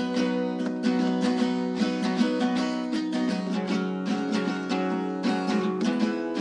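Acoustic guitar strummed in a steady rhythm, changing chord about halfway through.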